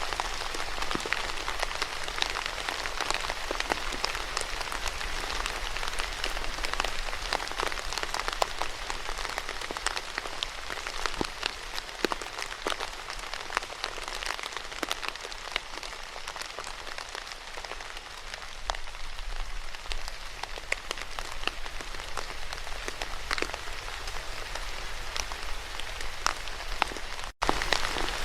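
Steady rain falling, a dense hiss with many distinct drop ticks. It breaks off for a split second near the end.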